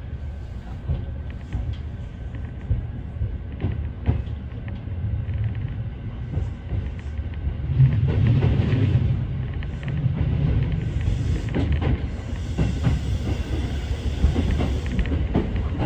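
Kintetsu electric train running over its rails, heard from inside the front car: a low rumble with wheels clicking over rail joints and points. It gets louder about halfway through as the train picks up speed.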